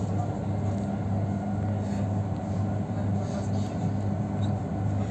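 Train running, heard from inside the carriage: a steady low hum with a couple of faint clicks.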